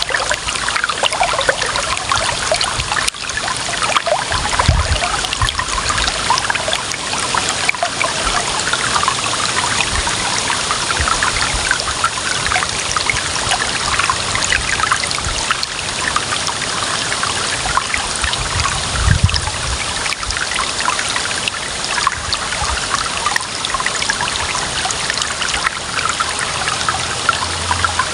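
Shallow stream of clear water running and trickling, with a steady bubbling splash and a few brief low rumbles.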